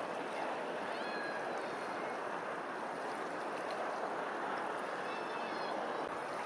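Steady rushing outdoor ambience, like water, with a bird calling twice: a short call about a second in and another about five seconds in.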